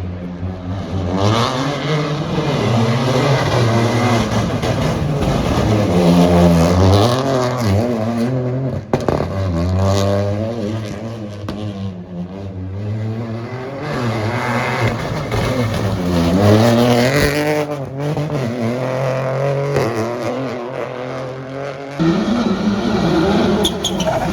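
Rally car engine revving hard, its pitch climbing and dropping again and again as the driver shifts gears and lifts off. The sound changes abruptly near the end.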